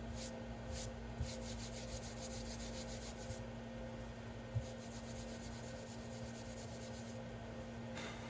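3D printer loading filament: a steady hum with two spells of fast, even ticking from the extruder feeding the filament, and an odd soft knock.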